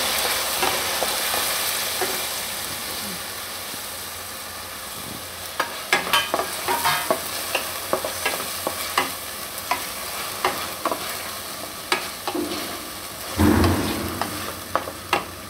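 Grated tomato sizzling in hot oil in a kadhai, the sizzle fading over the first few seconds. A spatula then stirs it, scraping and clicking against the pan, with a louder thump near the end.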